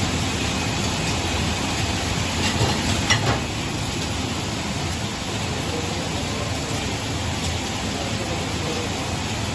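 Flight-type conveyor dishwasher running: a steady rush of machine and water-spray noise, with a few clinks about three seconds in.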